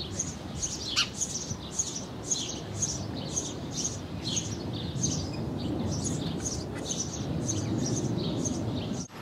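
Sparrows chirping repeatedly, short high chirps about two to three a second, over a low steady background rumble.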